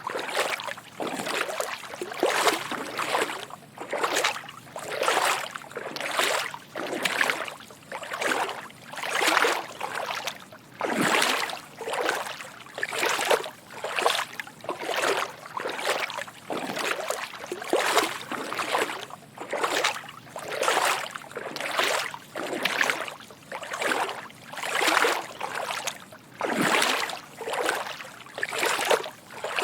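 Footsteps wading through shallow water: a steady walking rhythm of soft sloshing splashes, about two steps a second.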